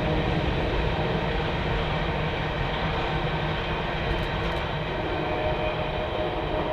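A train rolling past on the rails: a steady rumble of wheels and cars with a few faint steady tones over it, easing off slightly.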